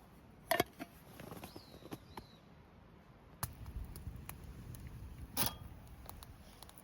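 A few sharp clicks and knocks with short rustling, like objects being handled. The loudest comes just after the start and another near the end. A small bird chirps faintly about two seconds in.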